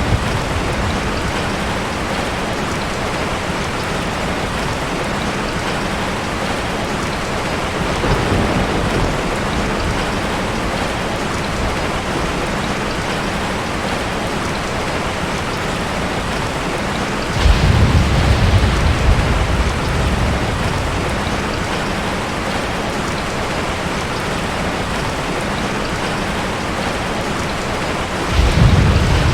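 Steady rain falling, with low rolling thunder rumbles: a faint one about a quarter of the way in, a louder one just past halfway, and another starting near the end.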